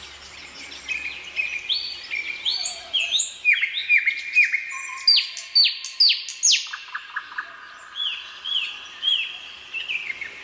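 Nightingale singing a varied run of phrases: whistled notes, a quick series of sharply falling notes repeated a few times a second, and short repeated chirps near the end.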